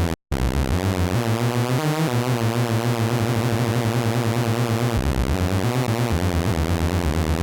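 Sylenth1 software synth playing a fast, rhythmic artcore gabber lead: a pulse-width-modulated hoover-style tone, its oscillator phase swept by an LFO, stepping through a line of low notes in rapid pulses. It cuts out for a moment near the start.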